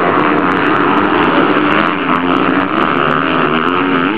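Motocross bikes' engines revving hard on the track, their pitch rising and falling as the riders accelerate and shift.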